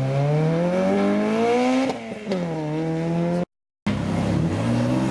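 Sports car engine accelerating hard as it pulls away, its pitch climbing steadily and then dropping at a gear change about two seconds in before it holds a steady note. The sound cuts out briefly past the middle, and another engine note comes in, also climbing.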